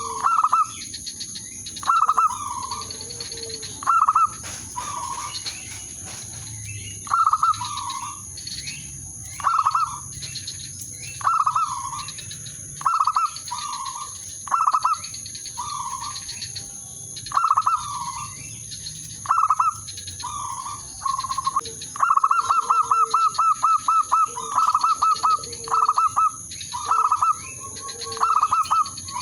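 Zebra dove (perkutut) cooing its staccato song: short rolling coos near 1 kHz repeated every second or two, with one longer rapid trill a little after twenty seconds in. Fainter, higher chirps from other small birds come in between.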